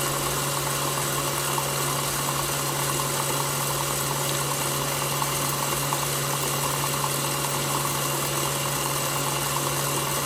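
KitchenAid Professional 6000 HD stand mixer's DC motor running steadily with a low even hum, its flex edge beater creaming butter in the bowl.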